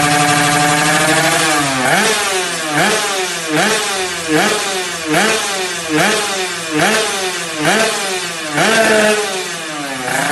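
Yamaha 125Z two-stroke single-cylinder engine running through a stainless Creampie underbone racing exhaust. It holds steady high revs for about the first two seconds, then the throttle is blipped in quick rev bursts, a little more than one a second, each rising and dropping straight back.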